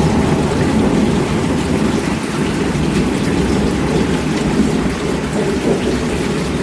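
Heavy, steady rainfall with a dense low wash and scattered drops on surfaces.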